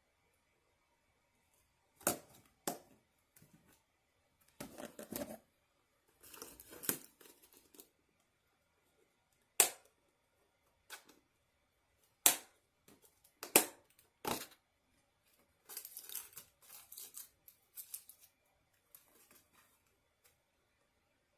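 Takeout food packaging being handled: several sharp snaps of plastic container lids, with a few stretches of crinkling and rustling in between.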